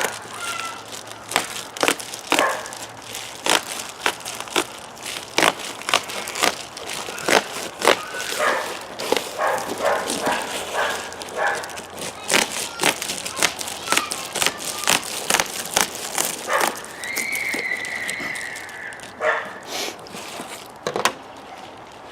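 Reflective foil bubble-wrap insulation crinkling and crackling as it is handled and cut, in a dense, irregular run of sharp rustles and clicks. A brief high whine sounds about three-quarters of the way through.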